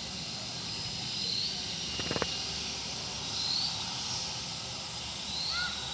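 Outdoor ambience: a steady hiss with a short, high chirp that repeats about every two seconds, and a brief rattle about two seconds in.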